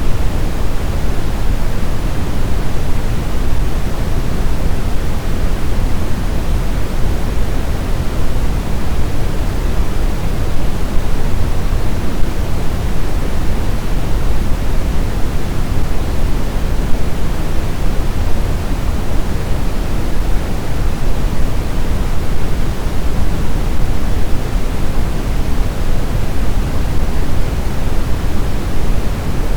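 Steady, even rush of blizzard wind noise, heaviest in the low end, with no gusts or howling.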